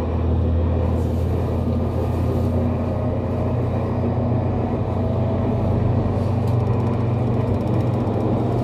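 Running sound heard inside the motor car of a JR Kyushu 813 series electric train: a steady low rumble and hum from the wheels and traction motors as it travels between stations. A brief run of fine rapid ticks sounds about six seconds in.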